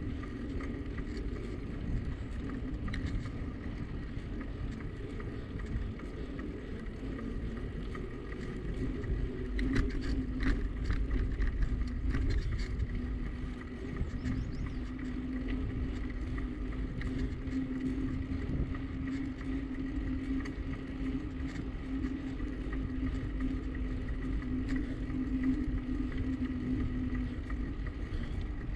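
Wind and road noise from a bicycle ride, a steady low rumble with a constant low hum under it.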